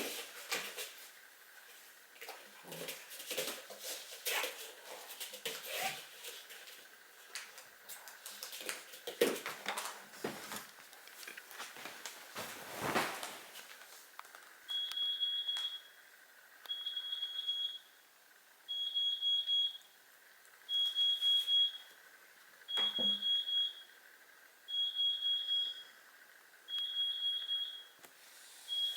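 A barbet puppy playing, with scattered knocks and scuffles and a few small vocal sounds. About halfway through, an electronic alarm starts beeping: one high steady tone about a second long, repeating every two seconds.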